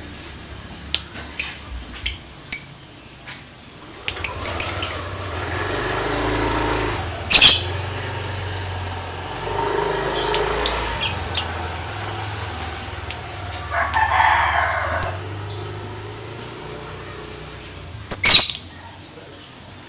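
Lovebird ngetik: a run of sharp, rapid clicking calls mixed with chatter, with two loud, shrill bursts, one about seven seconds in and one near the end.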